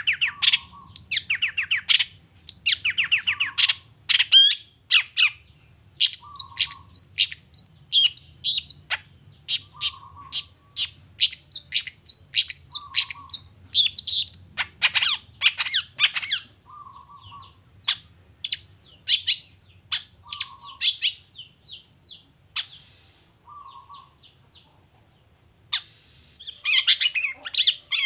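Long-tailed shrike (cendet) singing a fast, varied song of chattering and trilled notes, with a short low note repeating about once a second. The song thins to a brief lull before it starts again densely near the end.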